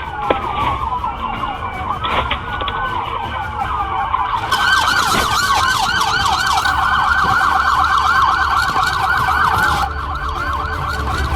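Police car sirens wailing in slow rising and falling sweeps, with more than one siren overlapping. About four seconds in they switch to a fast yelp that carries on almost to the end.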